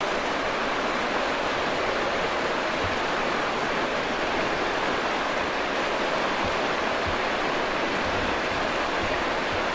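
White-water river rushing: a steady, even roar of fast water with no rhythm or pitch to it.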